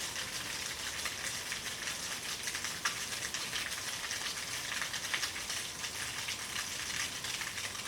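Steady hiss of water with scattered light ticks.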